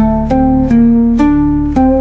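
Oud plucking a slow melody of single notes, about five in two seconds, each ringing and fading, over a steady low bass tone.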